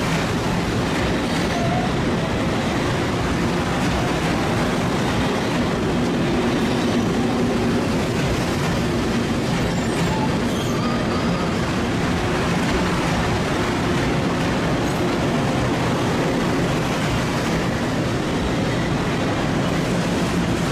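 Long Island Rail Road M3 electric multiple-unit train departing, its cars rolling past with a loud, steady noise of steel wheels running on rail.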